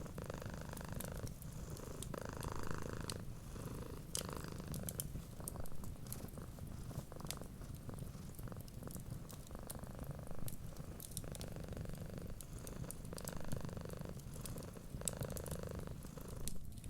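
Domestic cat purring steadily, swelling and easing with each breath about every second and a half, over the frequent sharp pops and crackles of a wood fire.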